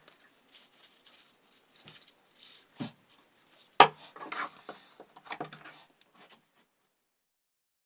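Metal parts and tools being handled: scattered clinks and knocks, the two sharpest about three and four seconds in.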